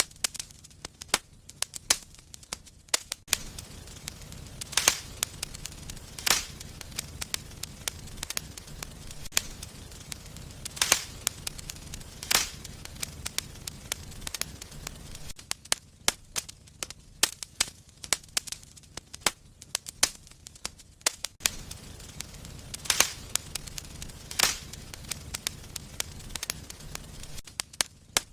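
Wood fire in a fireplace crackling, with a constant run of small sharp snaps and a handful of louder pops about every one to two seconds in clusters. A low rumble of the flames comes and goes beneath the crackle.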